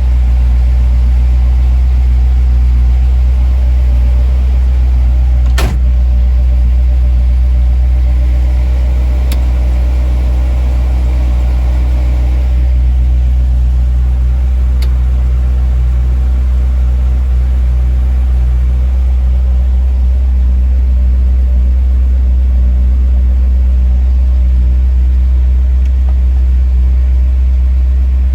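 1957 Chevrolet Nomad engine idling steadily just after a cold start, with a strong, even low rumble and a few sharp clicks.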